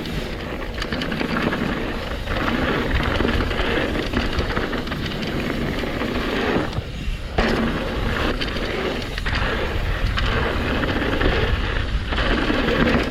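Mountain bike running fast down a dirt flow trail, heard from an action camera: wind buffeting the microphone over tyre noise and the rattle of the bike over rough ground.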